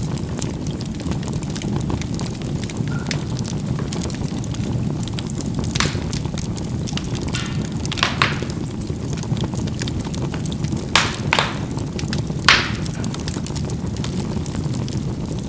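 Charcoal burning in a fireplace: a steady low rumble of the fire with scattered sharp pops and crackles, the loudest pop about twelve and a half seconds in.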